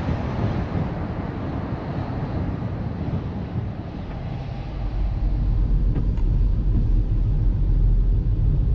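Car driving along a road: steady road and wind noise with a low drone that grows louder about halfway through.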